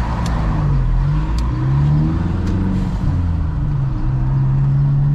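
Car engine running on the move with road noise, its pitch rising and falling several times as the car speeds up and changes gear.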